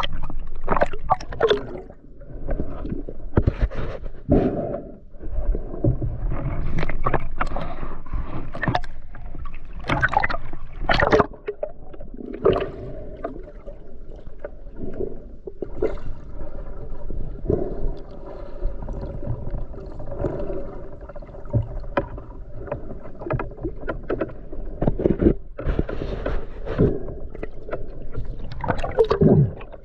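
Water splashing and gurgling in irregular bursts, with knocks, around a swimmer in a river.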